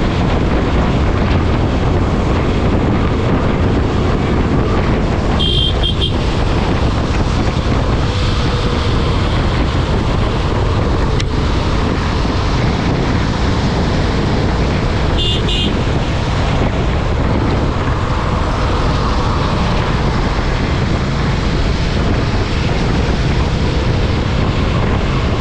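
Steady wind rush and road noise on the microphone of a moving motorcycle. Two short, high-pitched pulsing beeps cut through it, about six seconds in and again about ten seconds later.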